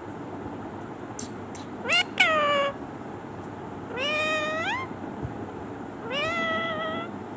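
A pet parrot making three drawn-out, meow-like calls, each rising in pitch, with a few short high chirps before the first.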